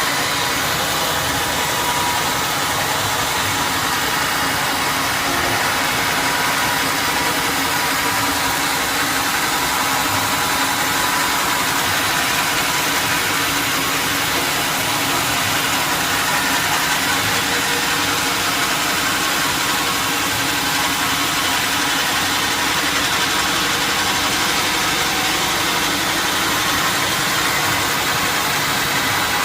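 Sawmill machinery running with a loud, steady drone and a few even hums in it, unbroken throughout.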